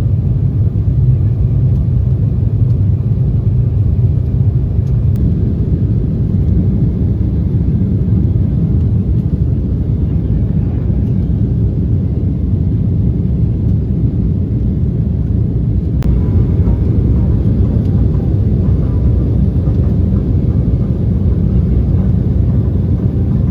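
Steady, loud low rumble of a jet airliner's engines and airflow heard from inside the passenger cabin, with a single sharp click about two-thirds of the way through.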